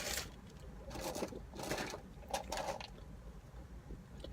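Close-up eating noises while eating a cheeseburger and fries: a few short rustling and chewing sounds in the first three seconds.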